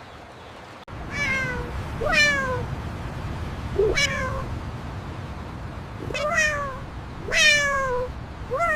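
A cat meowing repeatedly, about six meows, each one falling in pitch.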